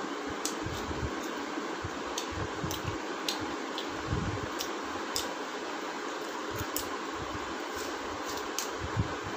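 Eating by hand at a table: soft mouth smacks and clicks of chewing luchi and chicken curry, scattered and irregular, over a steady background hiss. A slightly louder thump about nine seconds in.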